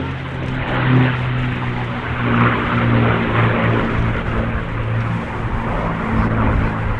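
Aircraft engine running steadily: a deep droning hum with overtones over a rushing noise, swelling and fading slightly.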